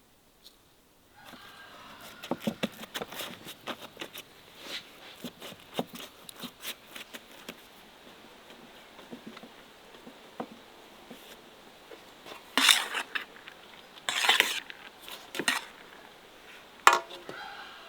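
Utensils clinking and knocking against pots and dishes: a string of light clinks starting about a second in, then a few louder clatters in the last few seconds.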